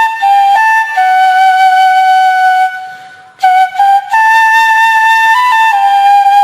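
Solo flute playing a slow melody of long held notes, with a note fading into a short break about three seconds in.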